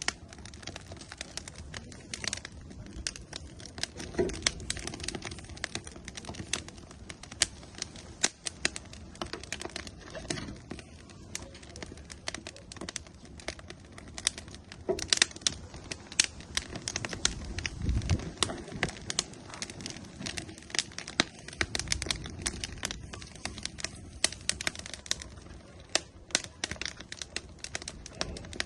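Burning firewood crackling and popping in an outdoor grill, a steady stream of irregular sharp pops and snaps. A low rumbling swell rises under the crackle about two-thirds of the way through.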